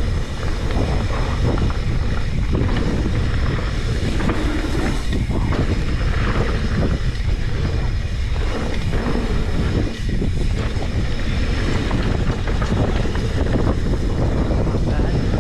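Wind buffeting a GoPro microphone, with tyre rumble and frequent knocks and rattles from a mountain bike riding fast over a rough jump trail.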